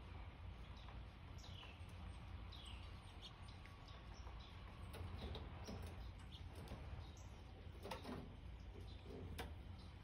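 Faint wild bird calls: short chirps sliding down in pitch about once a second for the first few seconds, then scattered high chips, over a steady low rumble. A couple of soft knocks come near the end.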